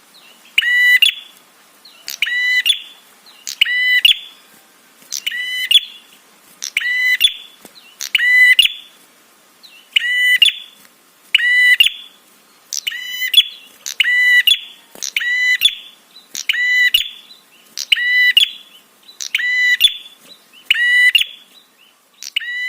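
Prenjak songbird giving its 'trapi' call: one loud, quick, rattling high phrase repeated about every one and a half seconds, the kind of call used to lure other prenjak into answering.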